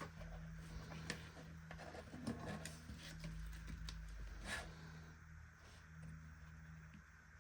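Faint scattered clicks and taps, a few in the first half and a slightly stronger one past the middle, over a steady low hum.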